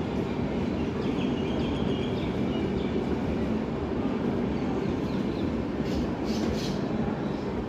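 Indian Railways superfast express train running on the track: a steady, even rumble of wheels and coaches, with faint high squeaks in the first three seconds and a brief hiss about six seconds in.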